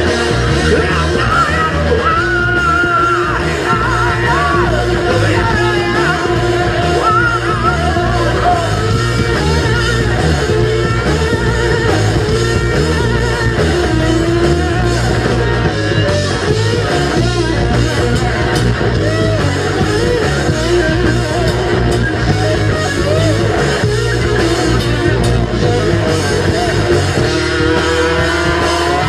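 Live rock band playing loud and steady: electric guitar, bass and drums, with sung vocals.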